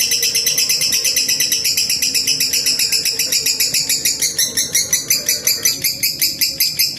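Lovebird giving its long, unbroken 'ngekek' chattering trill: a rapid, even run of high, shrill notes, about eight or nine a second.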